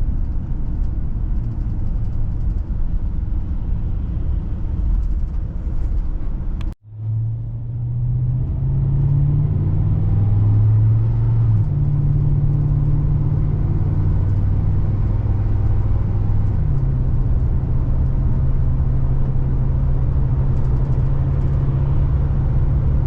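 Road and engine noise inside a moving car: a steady low rumble. About seven seconds in the sound cuts out for a moment, then comes back with a steady low engine drone that steps in pitch a few times.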